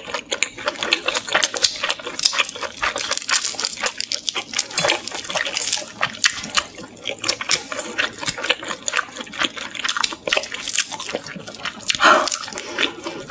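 Close-miked chewing of peeled salt-grilled shrimp: a dense run of quick mouth clicks, with a louder mouth sound near the end.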